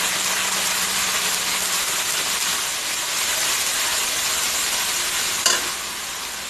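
Onion and ground spice paste sizzling in hot oil in a kadai as it is stirred with a steel spatula, a steady frying hiss. A single sharp clack comes about five and a half seconds in.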